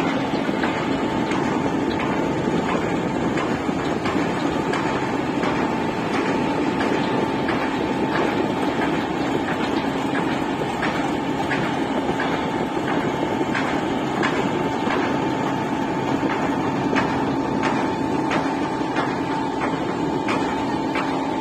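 River dredger's machinery running steadily: a loud, even mechanical drone with a constant hum and faint light ticking throughout.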